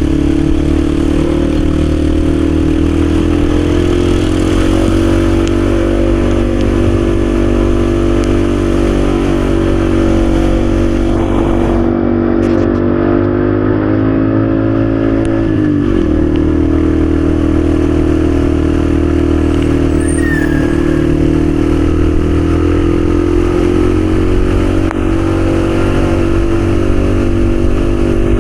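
Yamaha XSR155's single-cylinder engine running at a steady cruising speed under heavy wind rush on the microphone. The engine note sags a little and dips sharply about halfway through, then settles back to a steady pitch.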